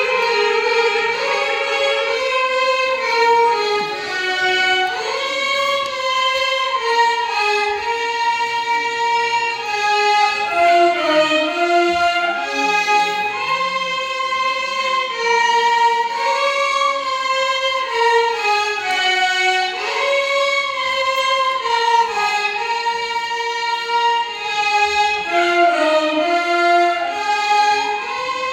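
Violin ensemble playing a Carnatic melody as a single line, with pitch slides between held notes and a phrase that falls and climbs back several times.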